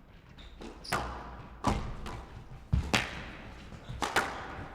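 Squash ball being struck by rackets and hitting the court walls during a rally: sharp thwacks about once a second, two in quick succession near the middle.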